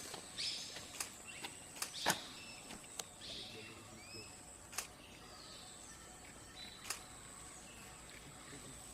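Birds calling with short chirps and a few quick rising and falling whistles, over a steady high-pitched tone. Sharp clicks come every second or two; the loudest is about two seconds in.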